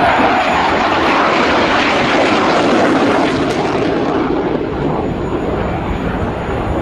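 JF-17 Thunder fighter's single Klimov RD-93 turbofan heard in flight: a loud, steady jet rush that eases off slightly after about three and a half seconds.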